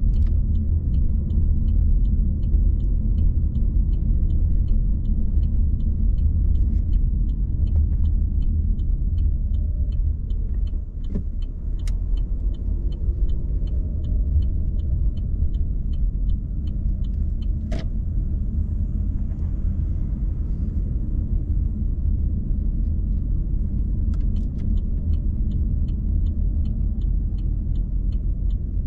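Car driving at low speed, a steady low rumble of engine and tyres on the road. A light, even ticking runs at about two a second through most of it, stopping for a few seconds past the middle, with a couple of single sharp clicks.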